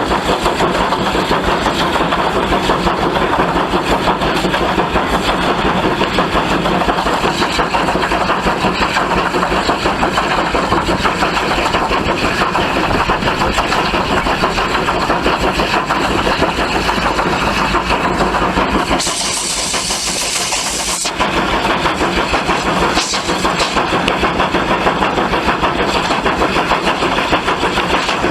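Steam tank locomotive working steadily, its exhaust beats coming fast and even. About two-thirds of the way through, a burst of hissing steam lasts about two seconds.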